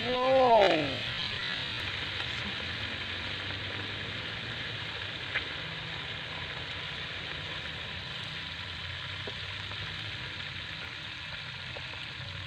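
Eel pieces sizzling steadily in hot oil in a frying pan on a portable gas stove, being fried half-cooked on turned-down heat. Near the start a short pitched sound rises and falls over the sizzle.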